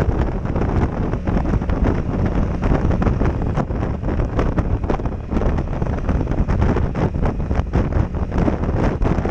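Heavy wind buffeting on a helmet-mounted action camera's microphone on a motorcycle at road speed: a loud, constant rush broken by rapid, irregular buffets.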